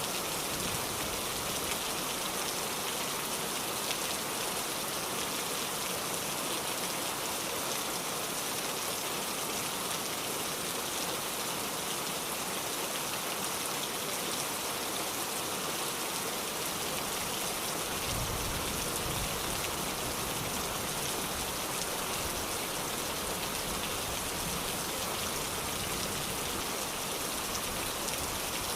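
Steady heavy rain, an even unbroken hiss of drops falling on surfaces. About two-thirds of the way through, a low rumble joins underneath it.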